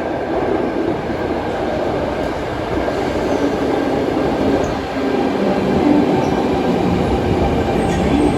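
Sydney Trains electric suburban train running in the underground section of the Eastern Suburbs line: a loud, steady rumble of wheels on rails. It gets a little louder about halfway through, when a steady tone joins in.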